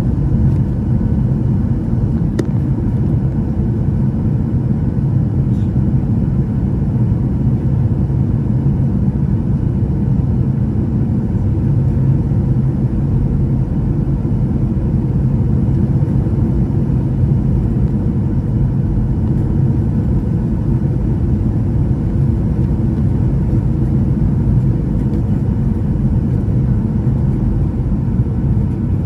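Steady low rumble of a Boeing 737-800's cabin noise, its engines and the airflow heard from a passenger seat, with a faint click about two seconds in.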